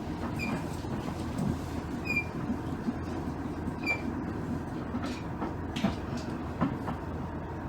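Inside a JR East KiHa 110 series diesel railcar: a steady low rumble from the car, with faint short high chirps about every two seconds in the first half and a few sharp clicks around the middle.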